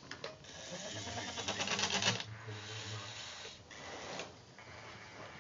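Small electric motors of a Carson radio-controlled forklift truck whirring and buzzing as it works, loudest for about a second from a second in.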